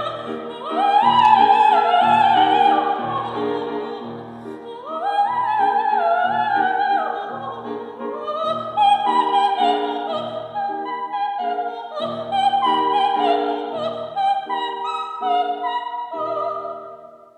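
Coloratura soprano singing operatic runs that climb quickly about a second in and again around five seconds in, over piano accompaniment in evenly repeated chords. The music dies away near the end.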